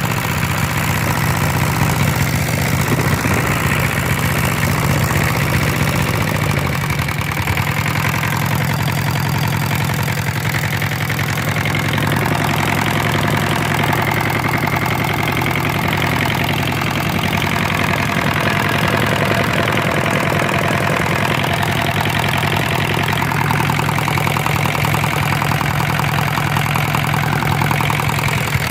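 Hatz air-cooled diesel engine running steadily on test, with an even firing beat that holds the same speed throughout.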